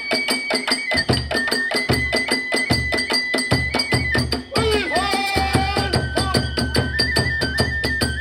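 Kagura hayashi ensemble playing fast: a transverse flute holds high notes and steps between them over dense, rapid strokes of drum and small hand cymbals. A voice calls out briefly about five seconds in.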